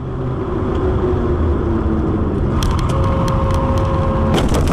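A car on the road, with steady engine and road rumble. More than halfway in, a run of sharp clicks begins, and near the end a steady tone holds for just over a second.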